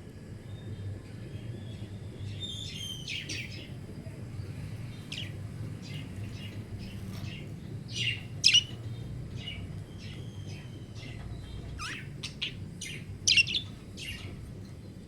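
Budgerigars chirping in short, scattered high calls, with two louder bursts a little past halfway and near the end, over a steady low hum.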